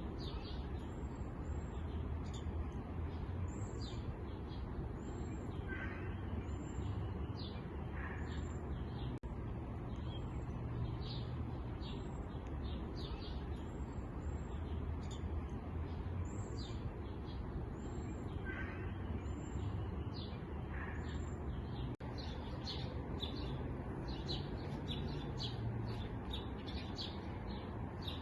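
Small songbirds chirping and twittering in many quick, high calls, with an occasional lower call now and then, over a steady low background rumble.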